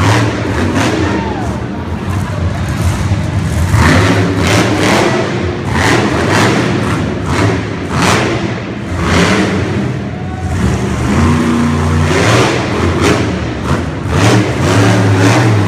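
Monster truck engine revving hard in repeated bursts during a freestyle run, with heavy thuds from the truck landing and bashing.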